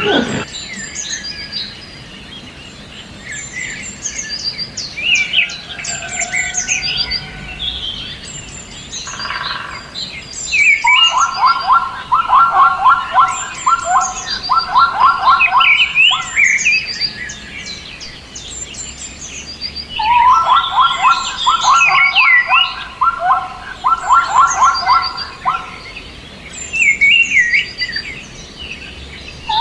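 Several birds chirping and singing short, high-pitched calls throughout. Twice, a faster, lower trill joins in and repeats for several seconds at a time.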